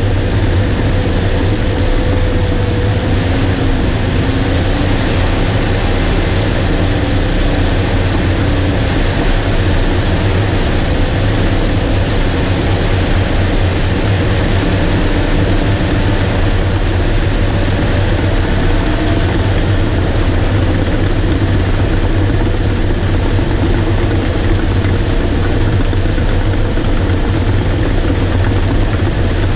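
Bulldozer's diesel engine running steadily and loudly while the dozer works, pushing topsoil, with a deep constant hum under a dense mechanical noise.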